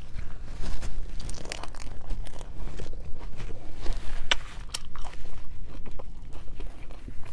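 A romaine lettuce wrap bitten and chewed close to the microphone: irregular crisp crunches and wet chewing clicks, with a few sharper crunches.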